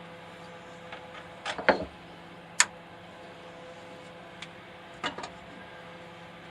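Sharp clicks and light knocks as a CNC router's touch plate and its magnetic clip are handled and set in place, over a faint steady hum. There are two loudest clicks, about a second apart, near the middle, and a quick pair of knocks later on.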